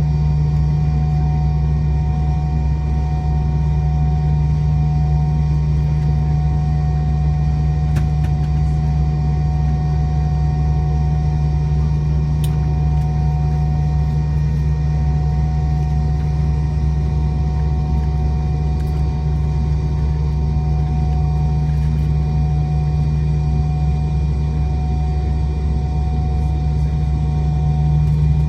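Cabin noise of a McDonnell Douglas MD-90 airliner with its rear-mounted IAE V2500 turbofans at low, steady power, a constant deep rumble with a steady whine from the engines and air system.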